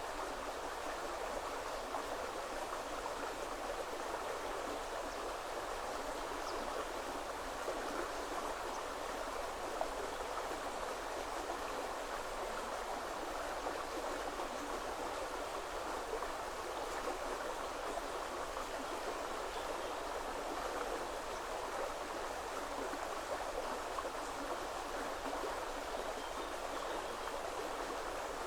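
River water flowing steadily over stones, a constant rushing and babbling.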